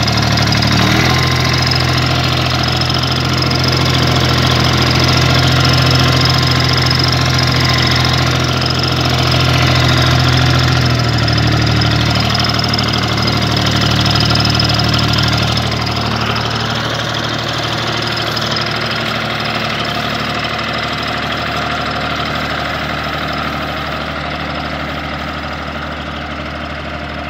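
Universal 453 tractor's three-cylinder diesel engine running steadily. Its note shifts about a second in and again about eleven seconds in, then grows gradually quieter.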